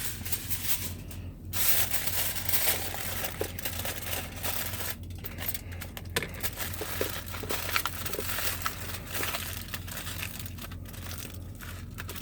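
Aluminium foil crinkling and crackling as it is torn, laid over food and folded down, an irregular run of rustles and small crunches over a steady low hum.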